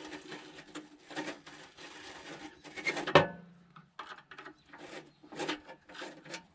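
Screwdriver working stubborn screws out of a metal panel: repeated rasping, grinding scrapes. One sharp metallic clank with a short ring comes about three seconds in.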